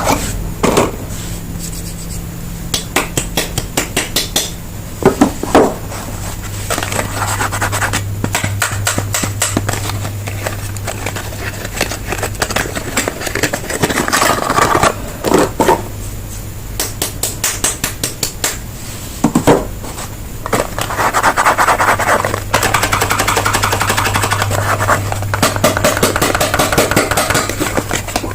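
Soap bars being unwrapped and handled: packaging rustling and crinkling, with runs of quick fingernail-like taps and clicks and a few sharp knocks, over a steady low hum.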